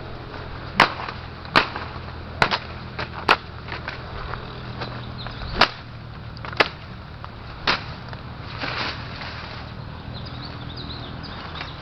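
A series of sharp, irregular clicks or taps, about eight over seven seconds, with faint high chirps near the start and end.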